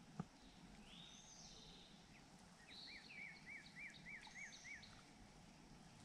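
Faint birdsong over quiet outdoor background: a couple of rising whistles about a second in, then a run of about seven quick repeated notes in the middle. There is one small sharp click just after the start.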